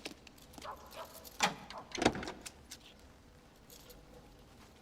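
Car door being opened and shut: a handful of clicks and knocks over the first two seconds.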